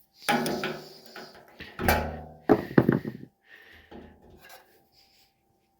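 Hands working on a generator's carburetor and fuel line: a series of knocks, rattles and clicks of tools and parts being handled, loudest about a third of a second in, around two seconds, and between two and a half and three seconds in.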